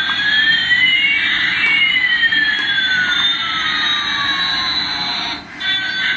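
Electronic jet-engine sound effect: a hissing rush with two whining tones, one rising and one falling, that cross in the middle and cut off near the end.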